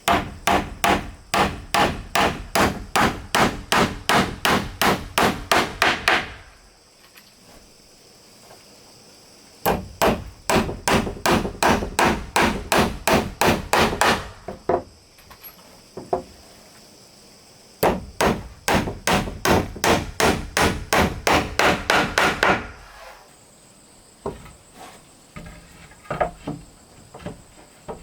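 A hammer striking wood in three quick runs of about three blows a second, each run a few seconds long, then a few lighter scattered taps near the end.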